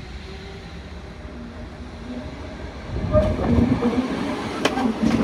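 Appenzeller Bahnen electric train approaching and running past close by, its rumble of wheels on rails swelling about halfway through, with a couple of sharp clicks near the end.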